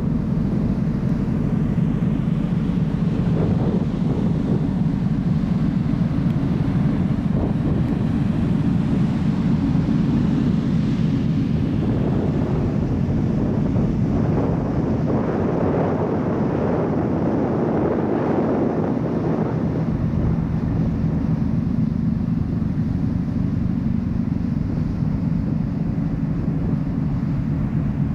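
Steady low drone of the car ferry Akatsuki Maru under way, with wind buffeting the microphone. The wind rises in gusts through the middle.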